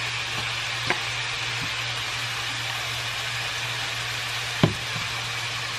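Ground beef and onions sizzling steadily in a frying pan on high heat. A faint tap comes about a second in and a sharper knock about four and a half seconds in.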